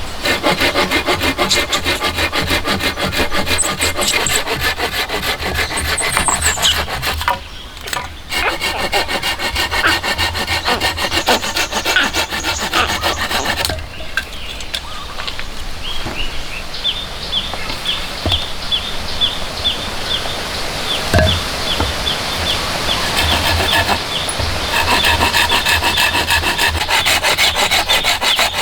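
Wood being sawn by hand: long runs of rapid rasping saw strokes, with two short breaks.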